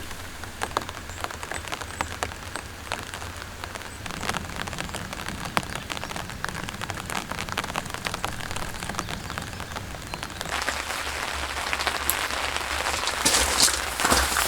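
Rain falling, with many separate drops ticking on a surface close by; the rain grows heavier about ten seconds in.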